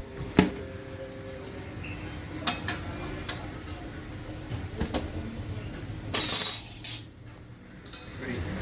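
Scattered clinks and knocks of metal utensils and pans at work in a naan bakery, with a louder rough scraping burst of about a second just after six seconds in.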